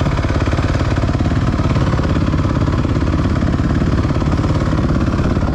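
Dirt bike engine running at a steady speed, its rapid firing pulses even throughout with no revving up or down.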